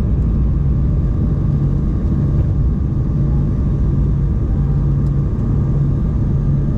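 Steady cabin noise inside an Embraer 190-E2 airliner in flight: the drone of its Pratt & Whitney PW1900G geared turbofans and the airflow. A low hum swells and fades about once a second, over a faint steady whine.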